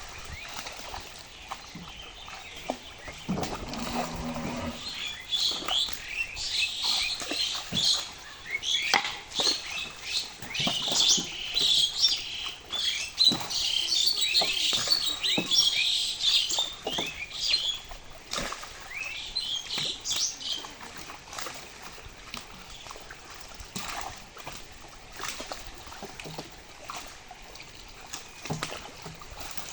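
Small birds chirping in quick, rapid-fire calls, densest and loudest through the middle and thinning out after that, over scattered sharp clicks.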